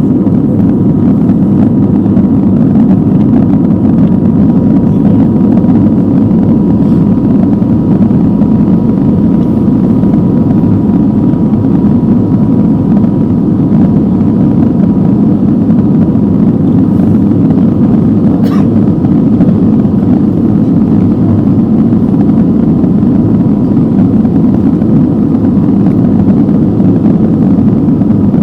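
Steady cabin noise of an Airbus A320neo under engine power, its CFM LEAP-1A turbofans running with a deep, even rumble and a faint steady whine on top, heard from inside the cabin.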